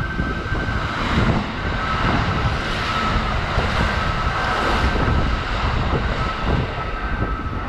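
Kintetsu 80000 series "Hinotori" limited express running through the station without stopping: a heavy rush of wheels on rail and moving air. It swells about a second in and holds while the cars sweep past, with the wind of the train buffeting the microphone.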